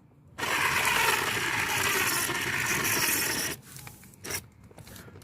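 Small USB-rechargeable cordless screwdriver's motor and gearbox running steadily for about three seconds while driving a screw in tight, then a single click about a second after it stops.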